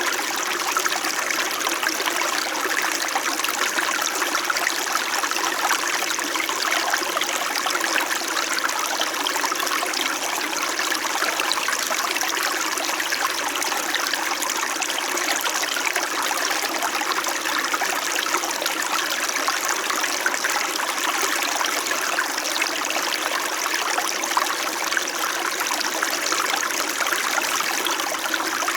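Small mountain stream flowing steadily over rocks in winter, a continuous babbling and trickling of water.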